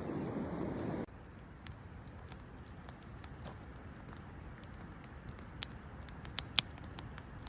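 Wind buffeting the microphone cuts off about a second in, leaving a quiet background with scattered sharp crackles and clicks, a few louder ones near the end.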